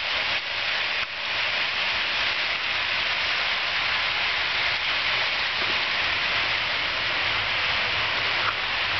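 Steady rushing noise of a vehicle on the move, an even hiss with a low rumble underneath.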